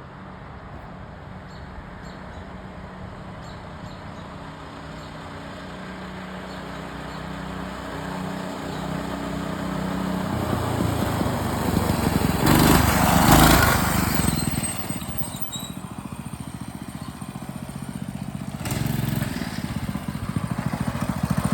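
Coleman CT200U-EX mini bike's small single-cylinder four-stroke engine running as the bike rides, growing steadily louder as it approaches and passing loudest with a rush of noise a little past halfway, then falling off before swelling again near the end.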